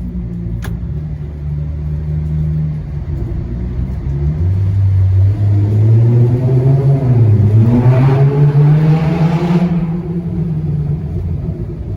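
2010 Hyundai Genesis Coupe 3.8-litre V6 running through a muffler-deleted exhaust: it runs low and steady, then revs up about four seconds in, dips briefly, climbs again to its loudest, and falls back to a low note near the end.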